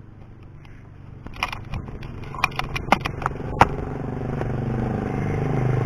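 A motor vehicle's engine grows steadily louder as it approaches. A run of sharp clicks and rattles falls between about one and a half and three and a half seconds in.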